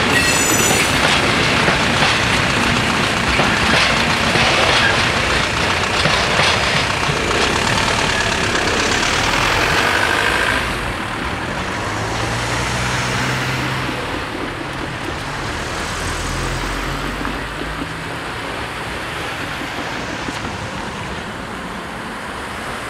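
A freight train's loaded open wagons rolling over the level crossing, with a brief high wheel squeal at the start. About ten seconds in the rail noise stops, and car engines and tyres take over as road traffic drives off across the tracks.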